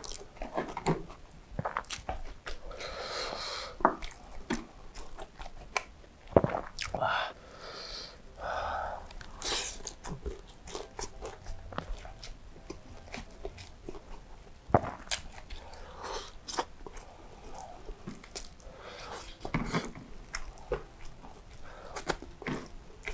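Close-miked mouth sounds of eating fried chicken and rice by hand: wet chewing and biting with irregular clicks and smacks, and now and then the crunch of the crispy coating.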